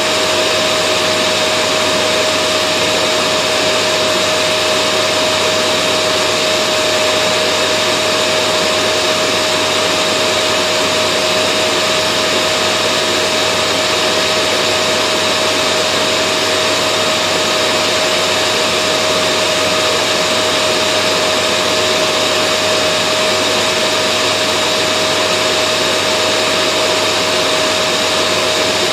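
Vacuum cleaner running steadily: a constant rushing air noise with a steady motor whine, unchanging throughout.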